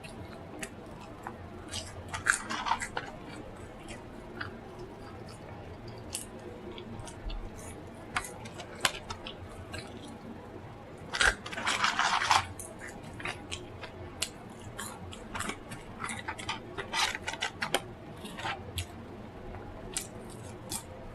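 Close-miked eating sounds: chewing with many short wet mouth clicks and smacks, and a louder crunching burst lasting about a second about halfway through.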